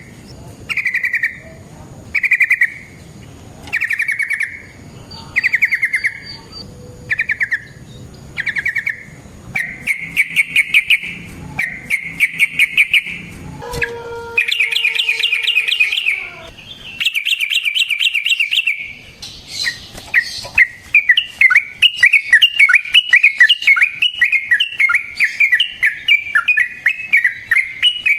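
Yellow-vented bulbul (trucukan) singing: short bubbly call phrases repeated about every second and a half, which lengthen into longer warbling phrases and, from about two-thirds of the way in, a rapid unbroken chattering run.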